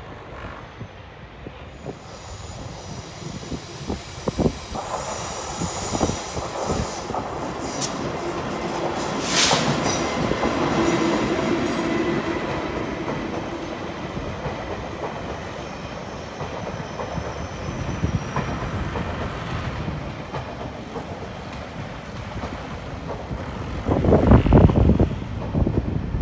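Taiwan Railways train moving through a station, growing louder as it nears, with wheel-on-rail clatter and a thin high squeal or whine at its loudest, then fading. A brief loud rumble comes near the end.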